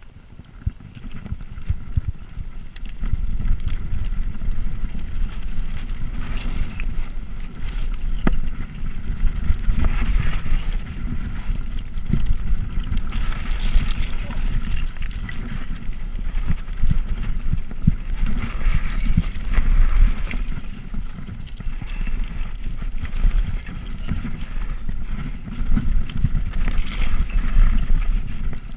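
Steady low rumble of a bicycle ride, made by wind on the microphone and tyre noise, growing louder about three seconds in.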